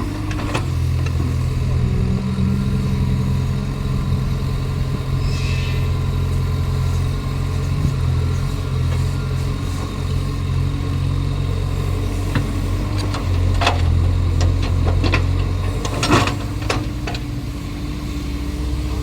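Caterpillar excavator's diesel engine running steadily, its note shifting a little, with a thin steady whine above it. A few sharp knocks come in the later part.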